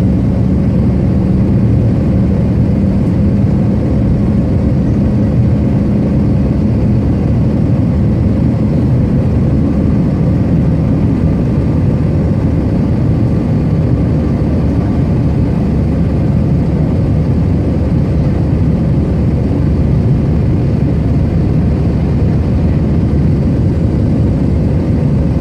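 Cabin noise of an Airbus A320-200 heard from a passenger seat: a steady, loud rumble of jet engines and rushing air. A low hum fades out about eight seconds in.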